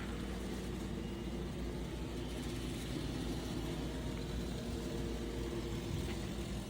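N scale model train locomotives running on the layout: a steady motor hum holding several level tones, with no break or change.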